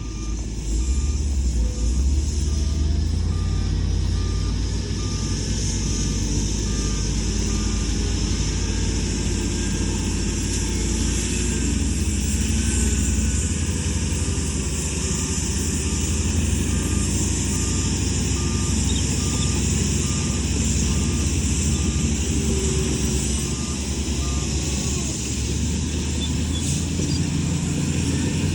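Heavy earthmoving machinery's diesel engine running under load, with a reversing alarm beeping about once a second that stops a few seconds before the end.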